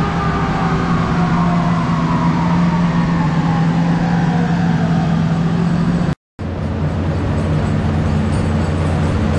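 BMW S50 straight-six in an E36 running on a chassis dyno, with a whine that falls steadily in pitch over the first few seconds as the engine and dyno rollers spin down after a pull. After a brief cut, the engine runs steadily at a low, even pitch.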